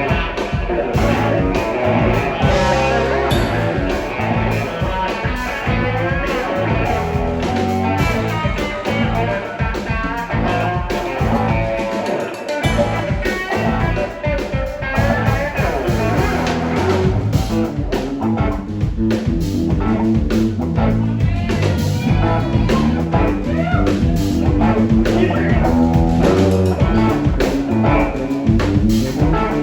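Live blues-rock band playing: a guitar lead with bending notes over bass and drum kit.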